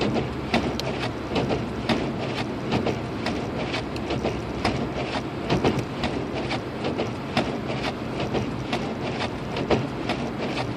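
Car driving on a snow-covered road, heard from inside the cabin: a steady road rumble and low hum with frequent, irregular clicks and ticks, as of tyres working through packed snow and slush.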